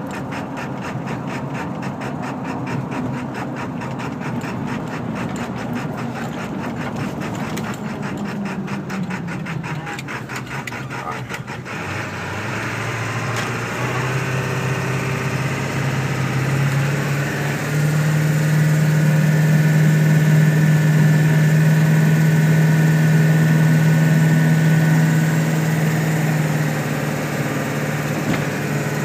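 1999 Ford F-250's 7.3-litre Power Stroke turbo-diesel V8 running with a rough, loping idle, a rapid uneven pulsing, as the truck coasts at low speed. About twelve seconds in the sound changes to a steadier, louder engine drone with a faint whine that rises and holds, then eases near the end. The owner believes a burnt injector wiring harness under the valve covers is sending signals to the wrong injectors, possibly with a bad injector or two.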